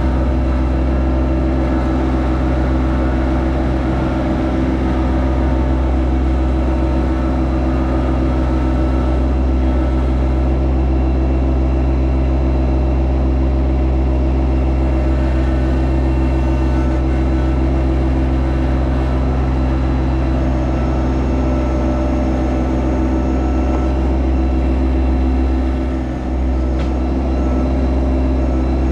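Yanmar SA324 compact tractor's three-cylinder diesel engine running steadily at a constant speed, with a brief dip in level about 26 seconds in.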